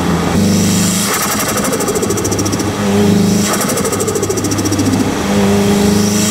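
Nissan S15 Silvia's turbocharged SR20 four-cylinder heard right at the turbo intake, on and off the throttle a few times. Short pulls under boost alternate with a rapid fluttering chatter from the turbo each time the throttle shuts: compressor surge, the turbo flutter.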